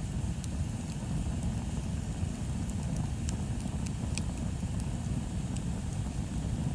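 Wood bonfire burning, with scattered sharp crackles and pops over a steady low rumble.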